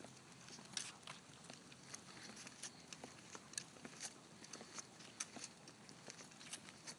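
Faint, irregular light clicks and taps, a few a second, from a dog moving about.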